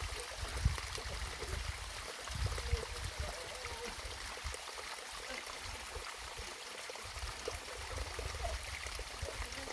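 Steady rushing of rain and running water, with gusts of wind rumbling on the microphone, strongest a little after the start and between two and three seconds in.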